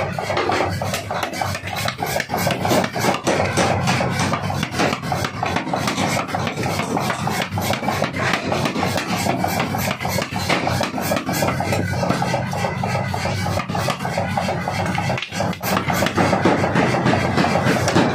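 A 75 kg pneumatic forging hammer pounding hot steel with rapid, repeated blows, several a second, over the steady noise of the running machine.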